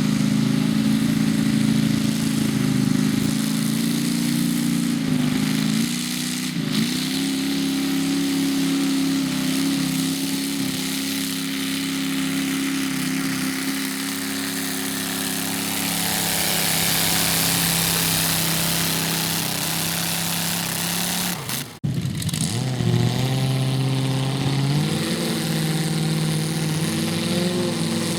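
Garden tractor engine running hard at a steady pitch, cutting off abruptly about three-quarters of the way through, then running again with its pitch climbing.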